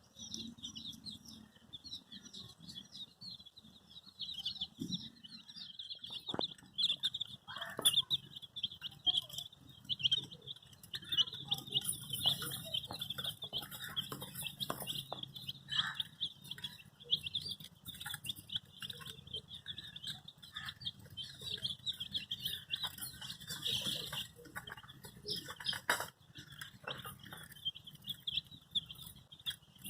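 A crowd of baby chicks peeping continuously, many short high cheeps overlapping, with scattered light taps and scuffles among them.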